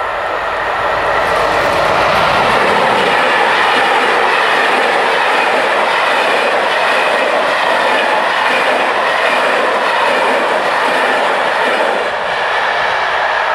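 Belgian intercity train of M4 passenger coaches passing over a level crossing: steady rumble and clatter of the wheels on the rails. It builds over the first couple of seconds and eases slightly near the end as the last coach goes by.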